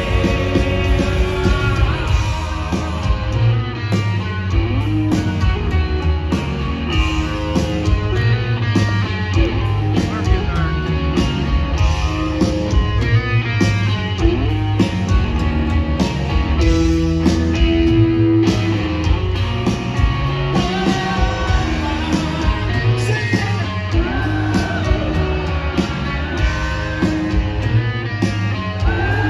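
Rock band playing live in concert: electric guitars, bass and drums at full volume, with some singing mixed in.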